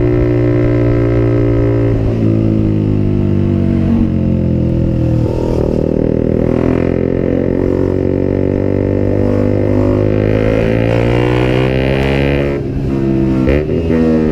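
Motorcycle engine running steadily under way, its pitch slowly rising and falling with the throttle; near the end the sound briefly dips, then the pitch climbs again.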